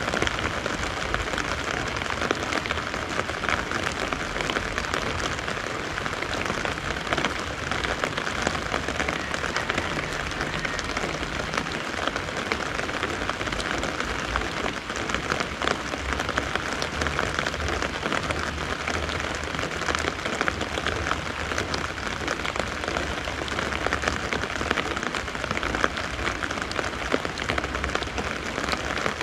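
Steady rain with many close, crisp drops pattering on an umbrella overhead and on the wet leaves and ground around it.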